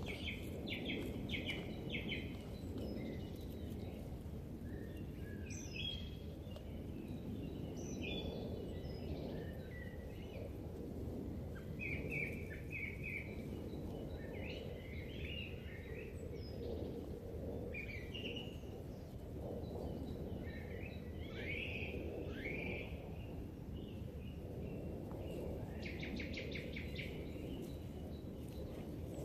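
Several songbirds singing and calling in spring woodland: scattered chirps and short phrases, with quick trills near the start and again near the end. A steady low rumble runs underneath.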